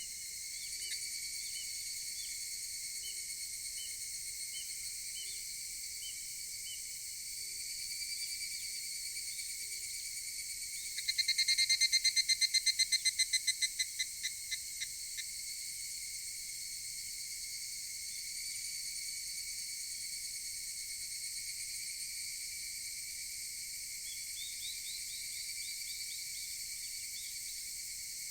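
A steady high-pitched chorus of cicadas. About eleven seconds in, a nearby higurashi (evening cicada) gives a loud, rapidly pulsed call that dies away over about four seconds.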